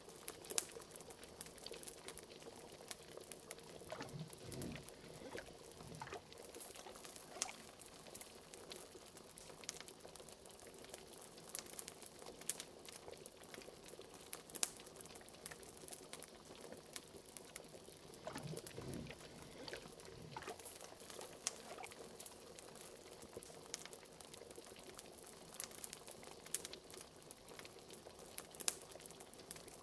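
Bubbling cauldron: liquid bubbling at a simmer with frequent small pops and crackles, and a few deeper glugs about four seconds in and again near nineteen seconds.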